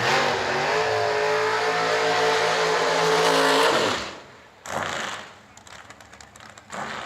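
Drag race car's engine held at high revs for about four seconds during a burnout in the water box, then cut off, followed by two short throttle blips.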